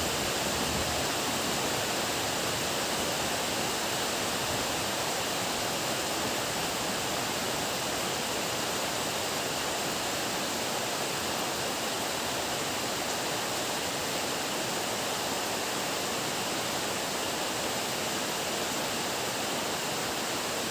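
Heavy rain falling in a steady downpour, an even hiss with no thunder.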